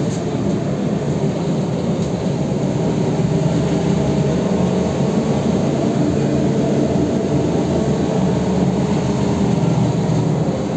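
BKM 321 trolleybus running along the street, heard from inside the cabin: a steady hum from the electric drive over tyre and road noise.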